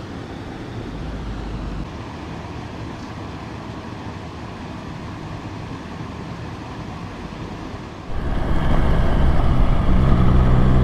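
A small waterfall splashing steadily. About eight seconds in, it cuts suddenly to the much louder sound of a BMW S1000XR's inline-four engine running as the motorcycle rides along.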